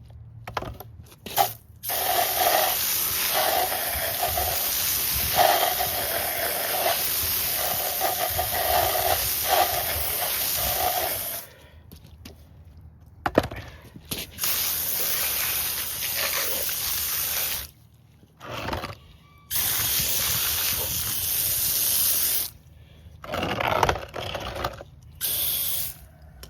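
Garden hose spraying water to rinse down a chainsaw, in several bursts: a long one of about ten seconds, then shorter ones of about four and three seconds, and a few brief squirts near the end.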